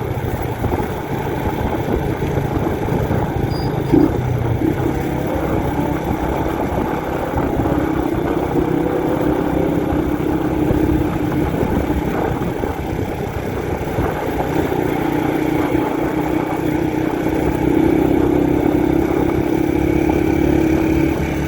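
Honda 125 CDI motorcycle's single-cylinder four-stroke engine running under way, its pitch rising and falling with the throttle, over steady wind and road noise. A sharp knock sounds once about four seconds in.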